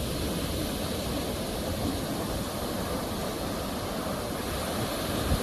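Sea waves surging and washing in a continuous rush of surf, with a low rumble underneath.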